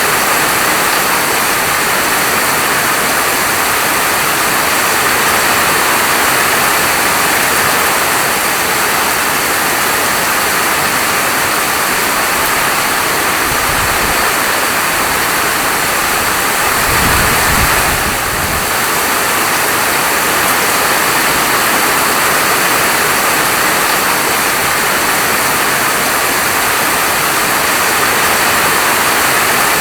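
Steady rain falling, a dense even hiss, with two brief low rumbles a little before the middle.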